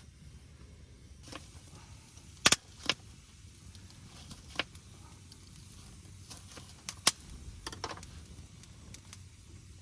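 A few scattered sharp knocks and clicks over a faint low rumble. The loudest is a quick double knock about two and a half seconds in; single ones follow, with a short cluster near the end.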